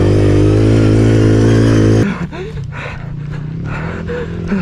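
Pit bike engine running steadily under throttle, cut off abruptly about two seconds in. After that comes a quieter low engine hum with short rhythmic sounds about three a second.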